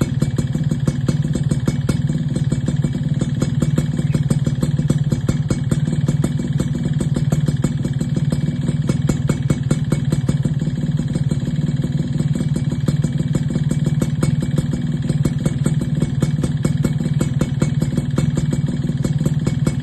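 Yamaha Alfa 100cc single-cylinder two-stroke motorcycle engine running steadily at a constant low speed through an aftermarket 'standard racing' expansion-chamber exhaust, a fast even train of exhaust pulses with no revving.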